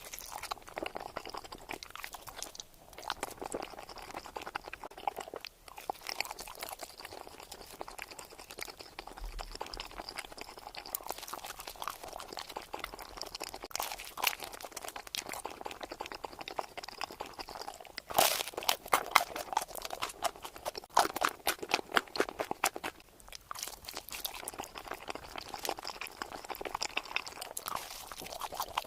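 Close-miked ASMR eating: crisp, crackly bites and chewing of crunchy food, with a run of louder crunches a little past the middle.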